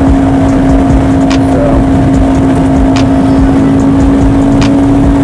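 Honda CBR500R's 471 cc parallel-twin engine running at steady revs while the bike cruises, with wind rumble on the microphone. A faint tick sounds about every second and a half.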